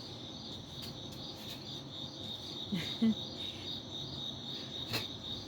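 Crickets chirping in a steady, even pulse, with a brief low sound about three seconds in and a sharp click near the end.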